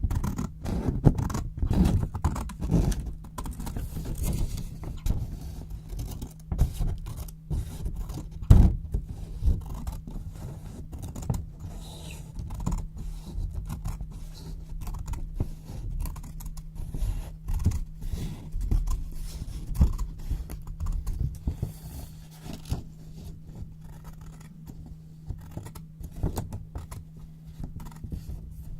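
Scissors cutting white paper, with paper rustling and crinkling: an irregular run of crisp snips and crackles, one sharper snip about eight and a half seconds in. A faint steady low hum runs underneath.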